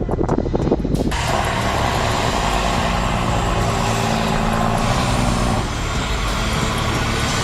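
A heavy truck's engine running steadily under load, its low drone mixed with a wide rushing noise of tyres and surroundings. A brief stretch of knocks comes first, then the sound cuts over to the engine about a second in.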